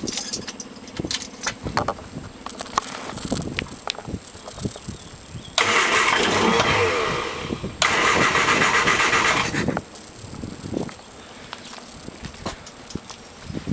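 1973 MG Midget's starter cranking its four-cylinder engine in two bursts of about two seconds each, without the engine catching: a first start attempt after 15 years. Light irregular clicking comes before and after the cranking.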